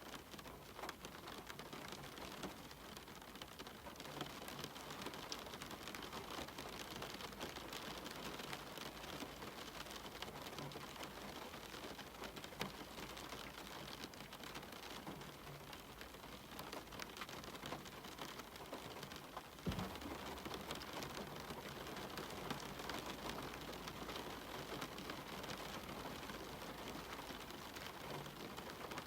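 Steady rain falling, with individual drops ticking through an even hiss. About two-thirds of the way through comes a single low thump.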